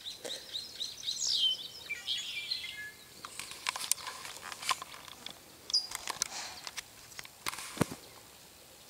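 Wild songbirds calling: a quick run of chirps and a short trill in the first few seconds, and one more high note later. Scattered sharp clicks and rustles run through the middle.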